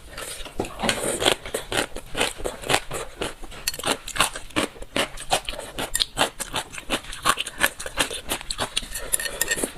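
Close-up crunchy chewing of a mouthful of crisp rehydrated gongcai (dried celtuce stems): a quick run of sharp crunches, several a second.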